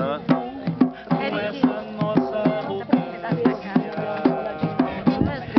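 Viola caipira playing an instrumental passage between sung verses: plucked and strummed strings with sharp, rhythmic attacks at about two to three strokes a second.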